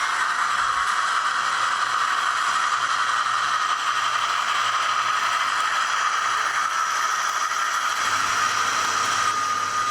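SDS Models NR class model diesel locomotive running with its DCC sound on: a steady, rattly mechanical noise from its onboard speaker and drive, with a low hum joining about eight seconds in.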